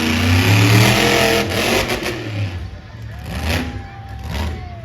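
Monster truck engine revving hard, climbing to its loudest about a second in, then dropping back to lower, uneven revs.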